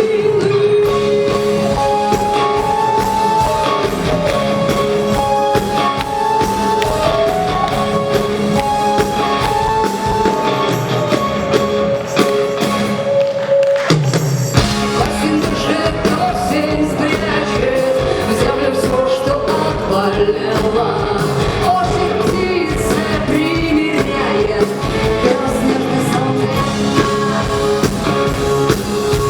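Live rock band performing a song with a sung melody. About halfway through, the band comes in fuller with drums and bass.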